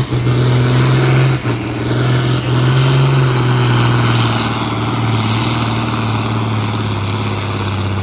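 Engine of a pulling truck or tractor running at high, nearly steady revs during a pull, its pitch sagging slightly in the second half.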